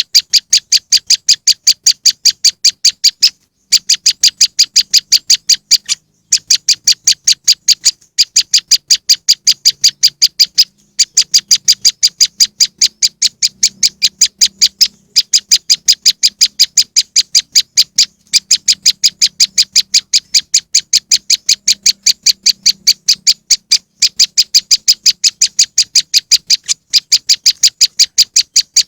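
Recorded prenjak lumut call played as a bird lure: a rapid, even series of sharp high chips, about four to five a second, in long runs broken by brief pauses every few seconds.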